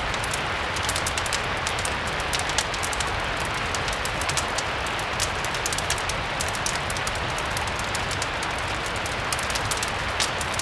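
Steady rain ambience mixed with a crackling fireplace: a constant hiss of rain over a low rumble, with frequent short, sharp crackles throughout.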